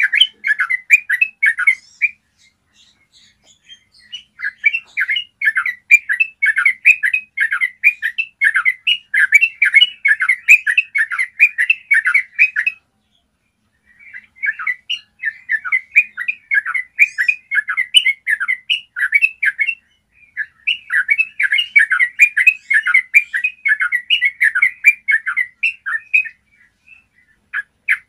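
Yellow-vented bulbul singing long, fast rolling runs of clear chattering notes, in several bouts broken by short pauses.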